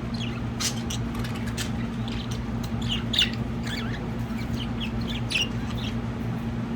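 Budgerigars chirping and chattering in short, scattered calls over a steady low hum.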